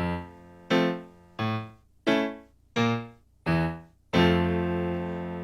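Keyboard playing a short interlude of the song's melody: six single decaying notes, evenly spaced about 0.7 s apart, then a longer held note near the end.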